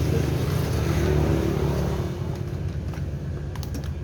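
Two-stroke 54.6cc chainsaw engine running steadily, a little louder for the first two seconds and then settling lower.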